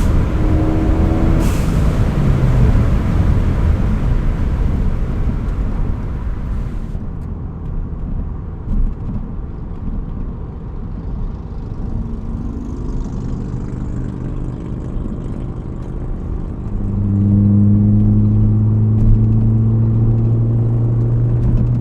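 2016 Ford Focus ST's turbocharged 2.0-litre four-cylinder, fitted with a COBB downpipe, cat-back exhaust and intake, running on the road: the engine note falls away at the start with a short hiss about a second and a half in, eases to a quieter rumble, then picks up again about three quarters through into a loud, steady low drone.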